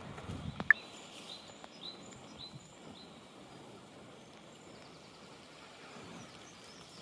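Small bird chirping: a short run of high, falling chirps about every half second, with a few more near the end, over a steady hiss of rain and wind. A single sharp click sounds a little under a second in.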